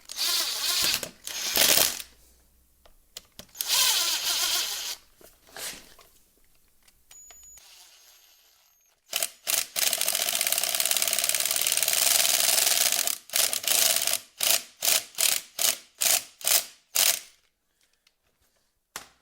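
A power tool running steadily for about four seconds, then in a string of short bursts at about two a second, with mechanical clattering and rattling of parts before it.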